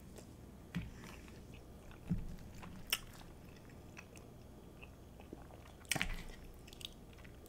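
Close-miked chewing of soft chili cheese fries, with a few short, sharp clicks and mouth sounds scattered through.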